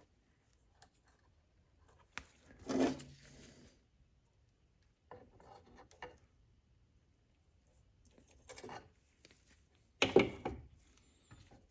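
Small metal parts being handled while a tiny governor spring is worked onto a small engine's carburetor linkage: short bursts of light clicks and scrapes, the loudest about two seconds in and again about ten seconds in.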